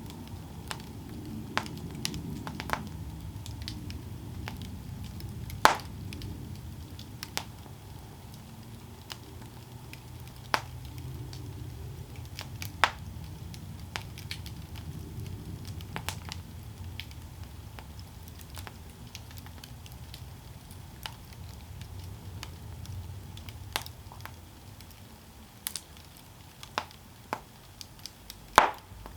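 Campfire burning: a steady low rumble of flames with scattered sharp crackles and wood pops, a few of them loud, one of the loudest near the end.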